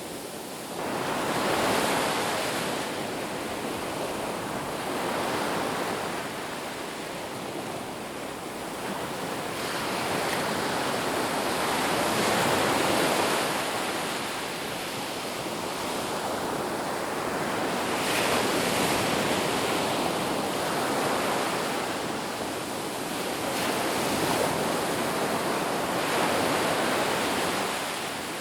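Ocean surf breaking on a beach, the wash of noise swelling and easing every few seconds as waves come in.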